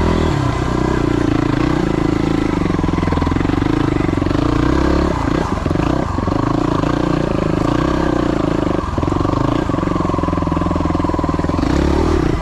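Yamaha WR250's single-cylinder four-stroke engine running steadily while the bike is ridden, with brief throttle lifts about five and nine seconds in.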